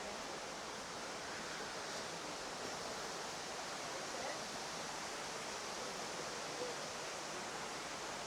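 Steady rush of running water from the rainforest biome's waterfall, an even hiss that holds level throughout.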